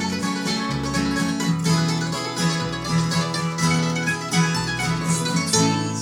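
Music played on plucked string instruments over a moving bass line, in a bluegrass-like style.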